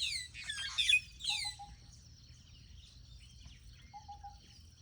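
Wild birds calling: a loud cluster of quick, downward-sliding chirps and whistles in the first second and a half, then softer scattered chirps. A short low three-note call comes twice, about a second and a half in and again near four seconds, over a faint steady high hiss.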